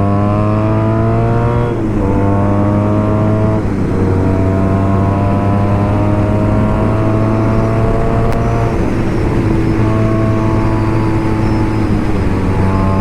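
BMW R nineT Racer's 1170 cc air/oil-cooled boxer twin accelerating through a full BOS Boxercup exhaust. It rises in pitch and shifts up about two seconds in and again just under four seconds in, then pulls steadily higher before another shift about two-thirds of the way through.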